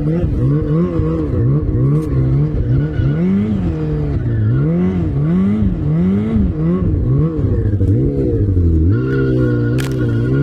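Off-road vehicle engine under load, its pitch rising and falling about once a second as the throttle is worked over rough ground.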